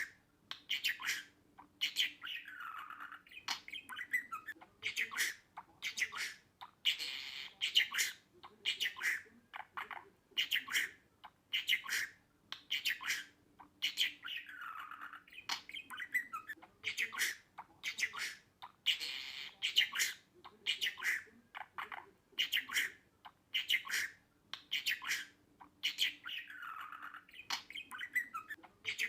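Budgerigar chattering in quick squawky chirps and warbles, a single passage repeated about every twelve seconds.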